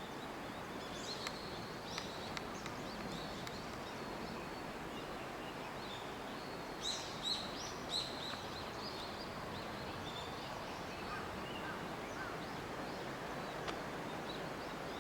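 Small birds chirping, short high calls scattered over a steady outdoor background hiss, with a cluster of louder chirps about seven to eight seconds in.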